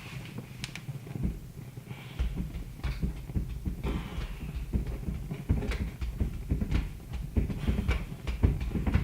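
Wood fire crackling, with irregular snaps and pops over a low rumble.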